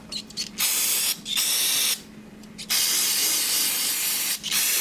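Aerosol can of brake cleaner spraying in four hissing spurts with short pauses between them, the longest lasting about a second and a half.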